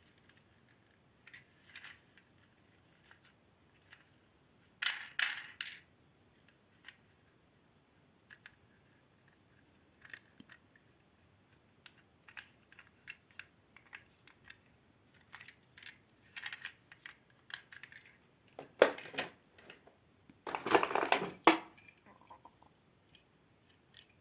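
Handling noise from a plastic toy fire rescue truck: scattered light clicks and taps, with louder rattling bursts about five seconds in and twice near the end.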